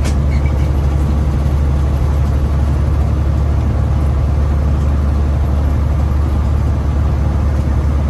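Caterpillar diesel engine of a Freightliner Classic tractor heard from inside the cab, a steady low drone as the fully loaded truck moves slowly. The driver thinks the loss of pace may come from bad diesel and a clogged fuel filter. There is a brief click right at the start.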